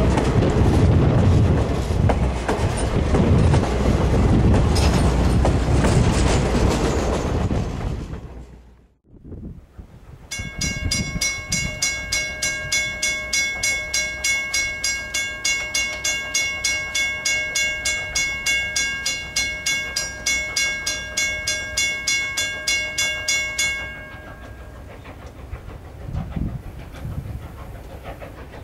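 A train rolls past with heavy rumbling rail noise. After a break, a railroad crossing warning bell rings in a rapid, even series of dings for about thirteen seconds and then stops, leaving quiet outdoor background.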